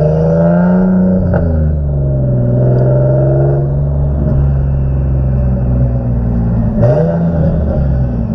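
Turbocharged Infiniti G37's 3.7-litre V6 pulling under way through an open-valve exhaust: revs climb, then drop with a sharp pop about a second and a half in, hold steady, and dip with another crack near seven seconds before picking up again. The pops are the backfires this car makes without a crackle-and-pop tune.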